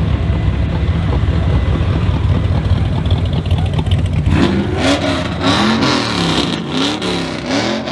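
A car engine idling with a loud, heavy rumble, then revved several times in quick succession from about halfway in, its pitch rising and falling with each blip of the throttle.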